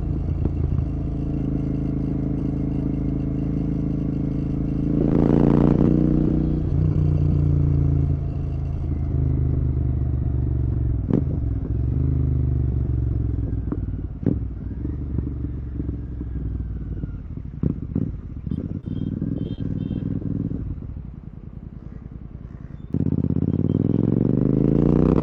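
Royal Enfield Continental GT 650's parallel-twin engine, with an aftermarket Red Rooster exhaust, running under riding load. It rises and falls once about five seconds in. Scattered clatter follows, the engine drops quieter for a moment, then its note climbs steeply near the end as it accelerates.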